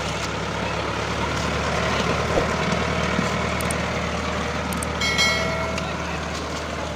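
Diesel tractor engine running steadily with a constant low drone. About five seconds in, a short pitched tone lasting about a second sounds over it.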